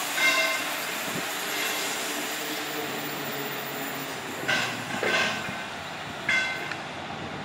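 Class 150 Sprinter diesel multiple unit pulling away on curved track, its engines running steadily. Short high-pitched wheel squeals come near the start and then several more from about four and a half seconds in.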